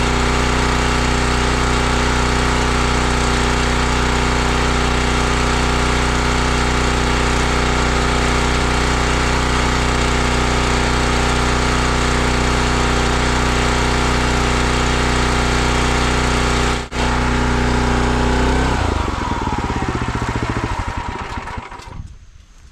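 Log splitter's small gasoline engine running steadily, then shut off about three-quarters of the way through and spinning down to a stop over a few seconds.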